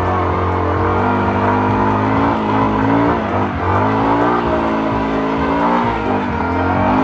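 Off-road motorcycle engine revving up and down, its pitch rising and falling several times as the throttle is worked.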